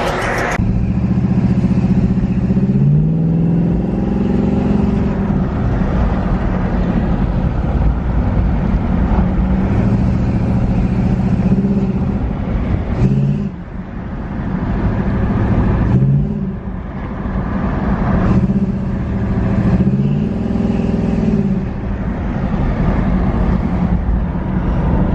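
Oldsmobile 403 V8 of a 1984 Cutlass heard from inside the moving car, pulling along the road. Its pitch rises under throttle and drops back about six times, with a steady engine note between.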